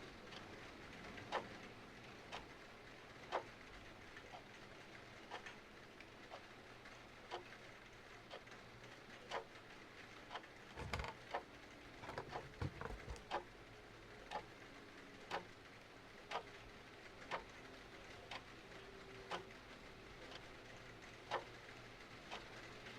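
A clock ticking about once a second over a steady hiss of rain, with a brief cluster of crackles and pops from a fireplace about halfway through.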